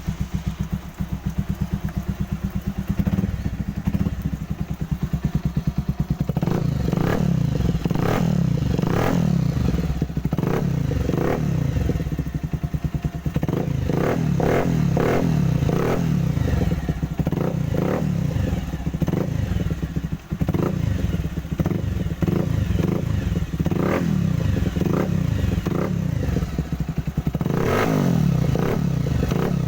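Bajaj Pulsar 180 motorcycle's single-cylinder four-stroke engine running through a custom exhaust, idling steadily and blipped repeatedly with short throttle revs from about three seconds in.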